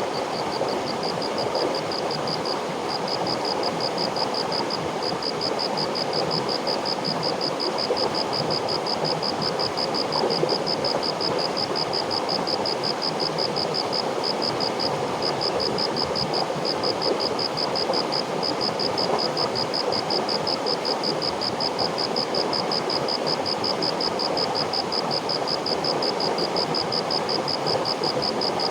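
River water flowing steadily, with a high insect trill pulsing rapidly over it in long runs broken by brief pauses.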